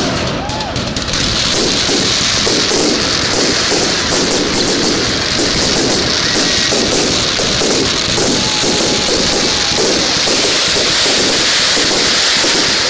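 Fireworks crackling densely and without let-up: a rapid, continuous run of small pops from glittering crackling stars, with dull thuds of bursting shells among them.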